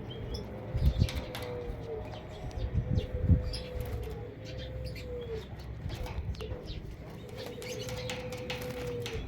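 Birds: a series of long, steady, low cooing notes, each dropping in pitch at its end, over faint short high chirps and a few soft knocks.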